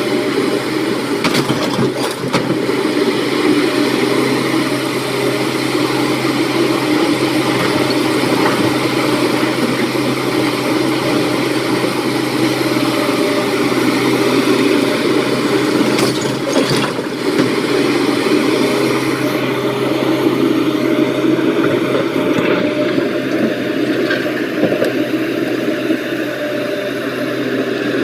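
Heavy diesel engines of an excavator loading a dump truck, running steadily throughout. A few sharp knocks stand out: about one and two seconds in, and again about halfway through.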